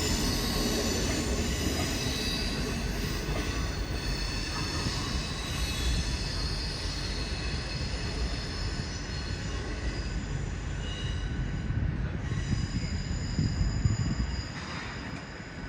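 Train moving slowly through the station, its wheels squealing against the rails over a steady rumble. The squeal thins out and the sound drops a little near the end.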